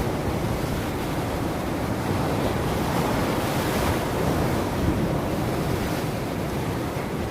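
Ocean surf: a steady wash of breaking waves, swelling a little in the middle, with wind rumbling on the microphone.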